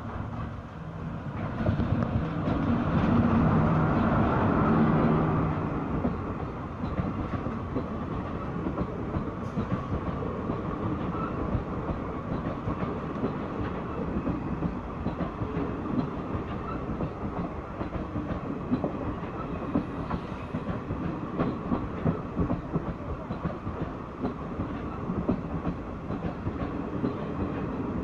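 WCAM-3 electric locomotive passing close, its steady hum loudest about two to five seconds in, followed by the express's coaches rolling past with a continuous clickety-clack of wheels over the rail joints.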